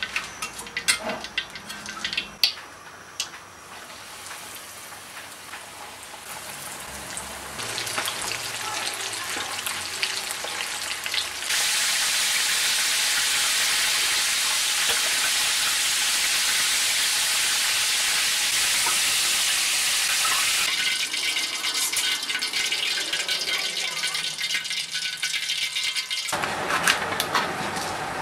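Chicken pieces deep-frying in a wok of hot oil, sizzling steadily. The sizzle starts a few seconds in, becomes much louder about eleven seconds in, and eases again after about twenty seconds, with a few clicks near the start.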